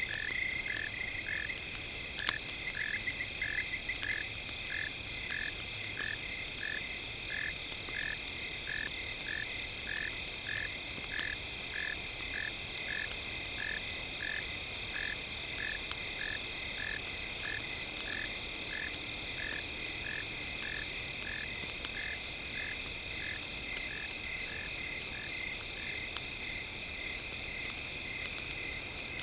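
Night-time nature ambience under scattered campfire crackles: a short chirping call repeats evenly, about one and a half times a second, over a steady high-pitched drone.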